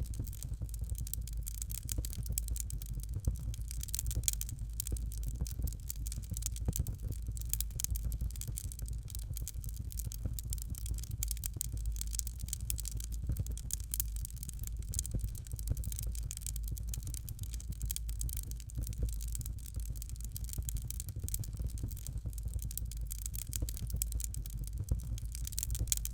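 Fireplace fire crackling steadily: dense, irregular small crackles and pops over a low, constant rumble of the flames.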